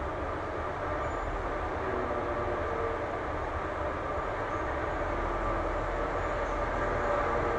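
Juneyao Air Airbus A320neo's Pratt & Whitney PW1100G geared turbofan engines running at idle after pushback, a steady jet rumble with a held whine, slowly growing louder.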